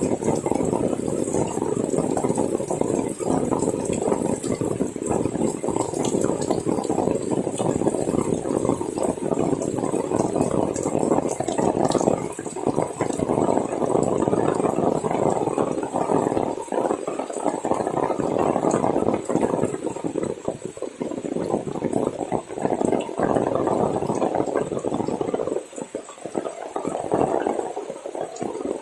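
Heavy rain pouring down and splashing in a steady wash of water noise, easing briefly a little before the end.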